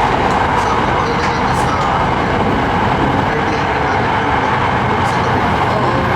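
Steady rumble and hiss of a train, unchanging throughout.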